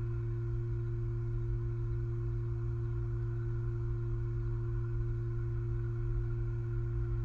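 Steady electrical hum from the nest-cam audio: a low buzz with a few higher steady tones above it and a flickering low rumble underneath, unchanging in level.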